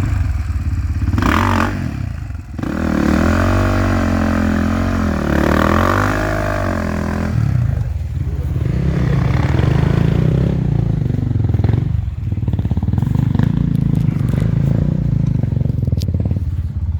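Enduro motorcycle engine revving up and down repeatedly for a few seconds, then running on at lower, steadier revs, with some clattering.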